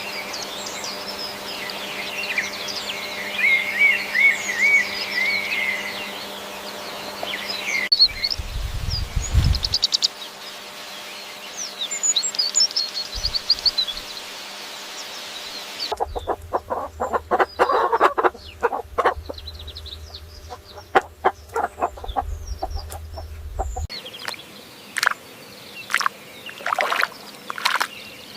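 Farmyard fowl chirping and clucking, in a run of short clips that cut into one another about every eight seconds: high chirps and trills first, then a stretch of quick, sharp calls.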